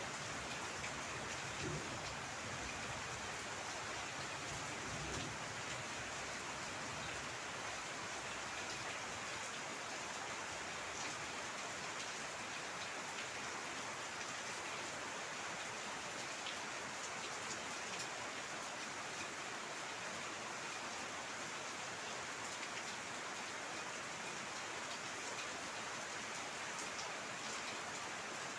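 Heavy rain falling steadily, a continuous even hiss with scattered drop ticks. A low rumble dies away in the first few seconds.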